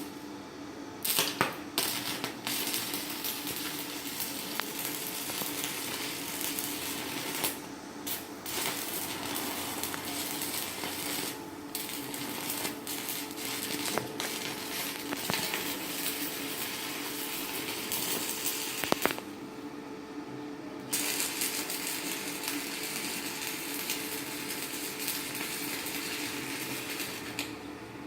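Stick (arc) welding with a 4.0 mm electrode on a 160 A inverter welder: the arc crackles and sizzles steadily, with a few short breaks, over a steady low hum.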